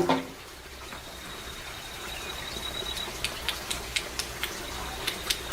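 A sharp knock at the start, then after a quiet stretch a run of light, sharp taps about four a second, from hand work on the repair. A thin, steady, high insect whine runs underneath.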